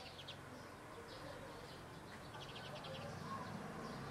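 Small birds chirping faintly in quick high trills: a few chirps near the start and a longer rapid series about halfway through, over a low steady background hum.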